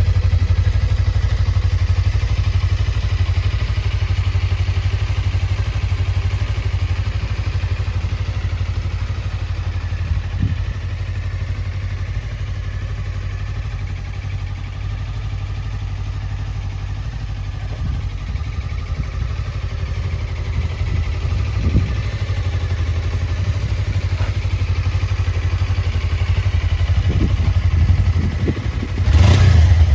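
Suzuki GSX250R's 248 cc parallel-twin engine idling steadily, with a few short throttle blips and a louder quick rev near the end.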